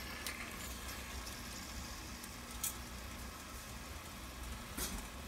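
Faint sizzle of a tomato-pepper stew base frying in palm oil in a pot, over a steady low hum, with two light clicks.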